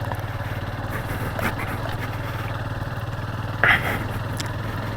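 Motorcycle engine running steadily at low speed while riding a rough dirt road. A brief sharp clack about three and a half seconds in.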